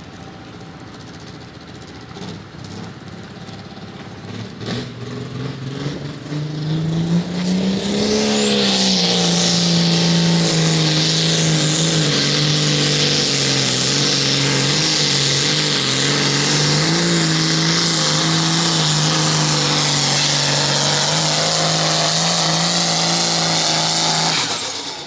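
Light limited super stock pulling tractor's diesel engine revving up over a few seconds, then running flat out for about sixteen seconds under the load of the sled, its pitch wavering slightly. It cuts off suddenly near the end.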